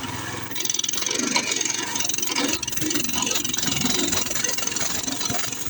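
Coleman CT200U-EX minibike's small single-cylinder four-stroke engine running steadily.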